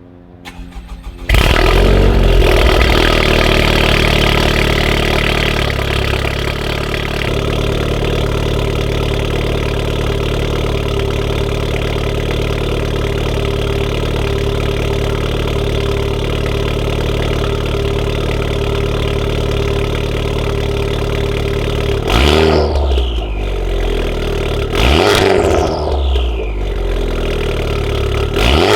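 Cold start of a Honda Civic Type R's 2.0-litre turbocharged four-cylinder through a catless downpipe and Remus valved cat-back exhaust. The engine catches about a second in with a loud flare, settles after a few seconds to a steady fast cold idle, then gets three quick revs near the end.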